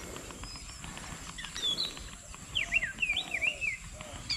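Wild birds calling: a couple of sharp whistled notes about a second and a half in, then a quick run of rapid up-and-down whistles past the middle, over a steady high-pitched background tone.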